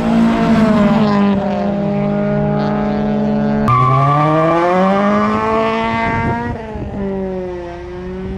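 Honda Prelude four-cylinder engines revving as the cars accelerate past, rising and falling in pitch. About four seconds in, the sound cuts abruptly to another car revving up and then easing off.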